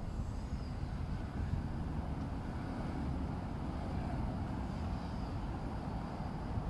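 Steady low rumble of passing road traffic on a city street.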